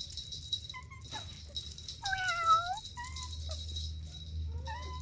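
Kittens meowing: about five short, high mews, with the longest and loudest about two seconds in and a rising one near the end.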